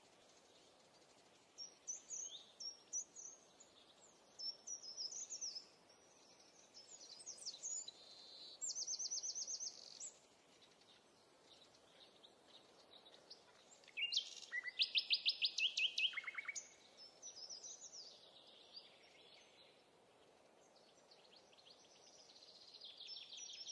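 Birds singing and chirping over a faint steady hiss: strings of short high chirps, a buzzy rapid trill about nine seconds in, and a louder rapid trill about fourteen seconds in.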